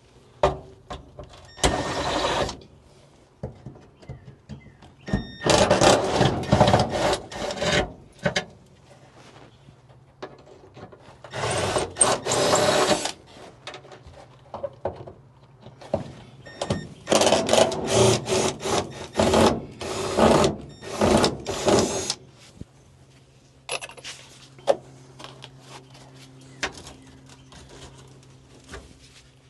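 Repeated bursts of rattling and scraping, each one to a few seconds long, as parts are worked loose and pulled from an old car's body and interior with hand tools. A faint steady hum runs underneath.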